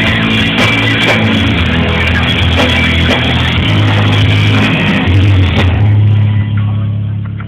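Live rock band playing, with electric guitars, bass and drum kit; about six seconds in the drums and cymbals drop out, leaving a held low chord.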